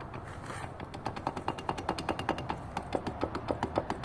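Rapid, even run of light metallic clicks and knocks from a Hyundai Accent manual gearbox's drive shaft and CV joint being rocked back and forth by hand against their play. The knocking is the sign of worn play in the joints or differential, which the owner links to a knock when pulling away as the clutch is released.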